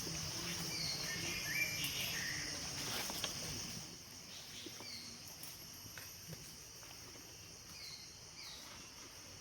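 Steady high-pitched drone of rainforest insects, with short chirping calls every second or two. The first few seconds are louder, with low background noise that then fades.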